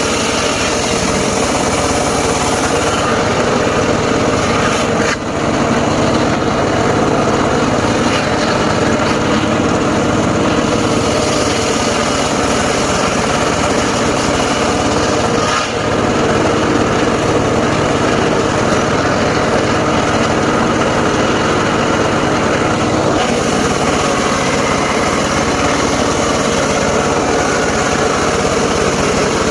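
Engine-driven portable circular sawmill running steadily, its motor and spinning blade droning at an even pitch.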